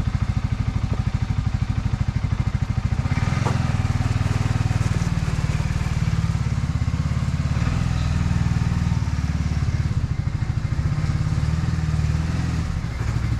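2021 Segway Snarler ATV engine running at low speed with a steady, low putter.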